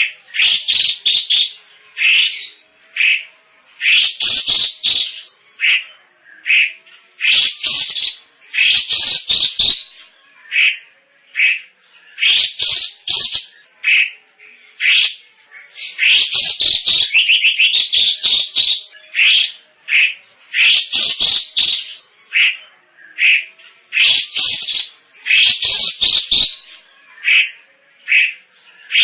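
A cucak cungkok bird calling loudly: short, sharp notes repeated again and again, often run together in quick clusters with brief pauses between them.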